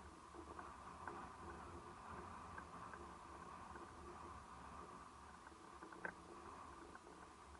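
Faint, steady sea ambience at a beach, with light scattered patter and one sharper click about six seconds in.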